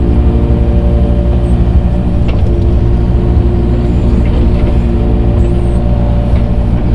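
Excavator's diesel engine running steadily at a constant speed, a loud even drone, while it grades dirt with a grading bucket.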